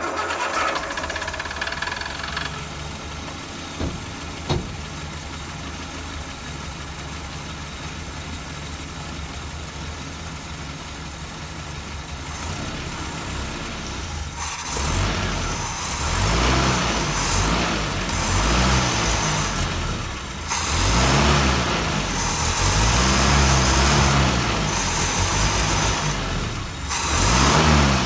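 Land Rover Series 3 2.25-litre four-cylinder petrol engine idling, then, from about halfway, hissing bursts of aerosol carb cleaner sprayed into its Weber carburettor, the engine speed rising and falling several times with the sprays. The cleaning is meant to clear dirt suspected of making the engine hesitate at full throttle.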